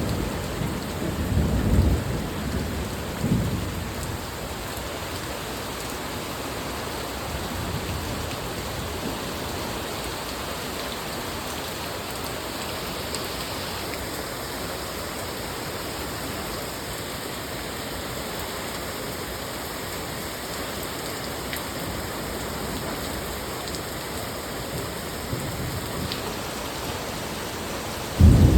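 Steady rain falling, an even hiss throughout, with a low rumble in the first few seconds that fades out.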